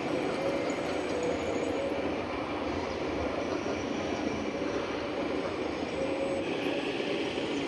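Radio-controlled scale model vehicle running: a steady whirring and grinding of its drive motor and gearbox, with a faint wavering whine.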